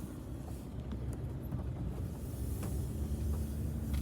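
Low rumble of a vehicle rolling slowly, with a faint steady hum and a few light clicks and knocks.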